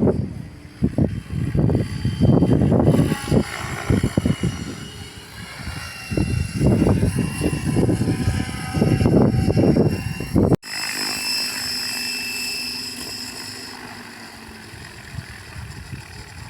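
RC model airplane's motor and propeller droning as it flies, with heavy gusts of wind buffeting the microphone for the first ten seconds or so. A cut then leaves a steadier propeller tone without the wind, slowly fading.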